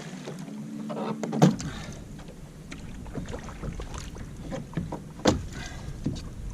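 Knocks and clunks on a plastic fishing kayak as the scupper plugs are pulled to let water drain from the deck. Two sharp knocks stand out, one about a second and a half in and one about five seconds in.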